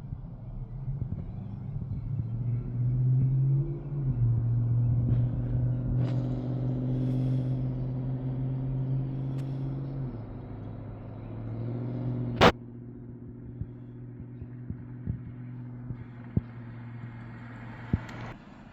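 A motor vehicle's engine running steadily with a low hum, dropping in pitch about 4 and 10 seconds in and fading out near the end. A single sharp crack sounds about 12 seconds in.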